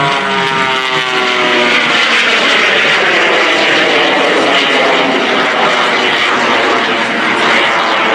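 Jet Waco biplane flying past with its 985-cubic-inch radial piston engine and underslung jet engine running. The engine tone drops in pitch over the first two seconds as the plane goes by, then gives way to a steady loud rush of engine noise.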